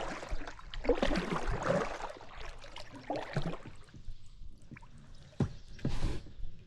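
Water splashing and sloshing beside a kayak as hands and paddle work at the surface, with two sharper splashes near the end.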